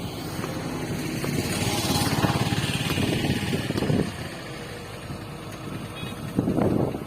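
An engine running with a rapid pulsing note, growing louder over the first few seconds and then easing off, as a motor vehicle passes.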